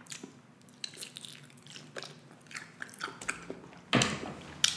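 Close-miked biting and chewing of beef kielbasa sausage: a run of short, sharp mouth clicks, with a louder burst about four seconds in.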